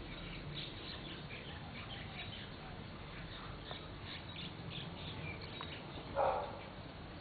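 Faint, scattered high chirps of small birds, with one brief louder sound about six seconds in.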